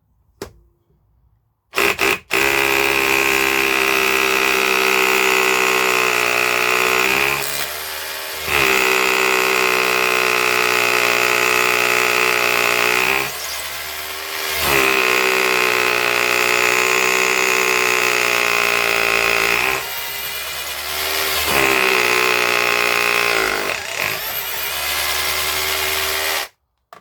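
Cheap 20-volt cordless SDS rotary hammer drill running a 7mm masonry bit, with a steady high motor whine in long stretches of several seconds. It eases off briefly about four times between stretches, then stops shortly before the end.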